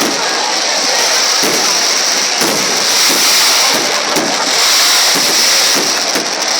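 Fireworks going off in rapid succession: a dense, loud crackling with scattered sharper pops over a steady hiss.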